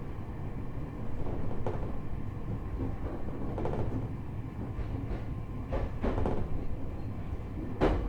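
Running noise heard inside the car of a JR East E127 series electric multiple unit: a steady low rumble of wheels on rail, with several clacks as the wheels pass over rail joints, the loudest near the end.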